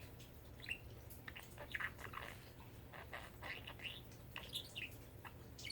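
Pet budgerigar chattering quietly in quick, short chirps and warbles.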